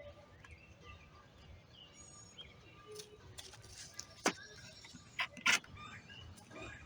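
Birds chirping faintly in the background, with a few sharp clicks or taps a little over four and five seconds in.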